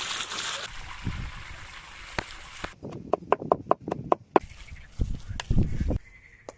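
A quick, even run of about seven sharp knocks with a short ring to each, coming about three seconds in after a stretch of hiss, then a few dull low thuds.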